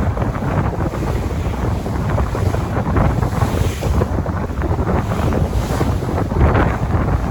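Sea waves with wind buffeting the microphone: a constant low rumble, with swells of hiss every few seconds as waves wash in.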